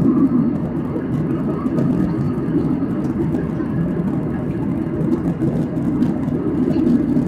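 Steady cabin noise of a Boeing 737-800 in flight: the hum of its CFM56-7B engines and the rush of airflow past the fuselage, mostly low.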